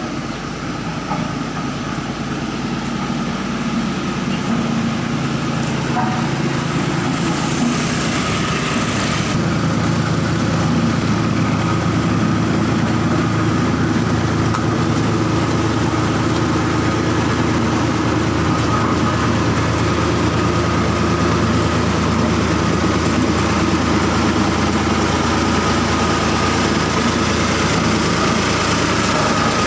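A heavy engine running steadily, growing louder over the first ten seconds or so and then holding level.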